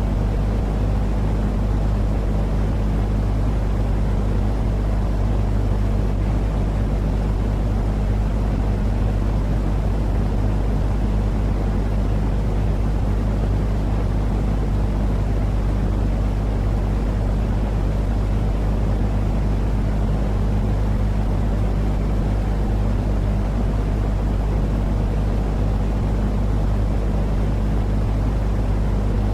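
Steady, unchanging low rumbling noise with a constant low hum under it, played as a continuous sleep-noise track for a baby. It has no breaks and no rise or fall.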